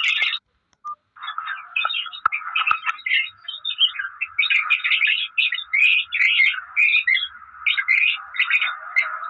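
Parrot chirping in a quick, continuous run of short calls; it cuts out briefly about half a second in, then resumes.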